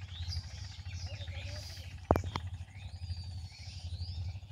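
Birds chirping and calling with many short rising and falling whistled notes, over a low steady rumble. Two sharp clicks about two seconds in are the loudest sounds.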